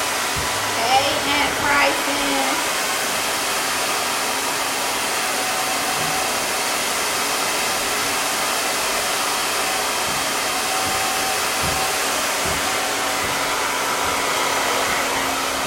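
Handheld hair dryer blowing steadily, drying during a wig install, then switched off at the very end.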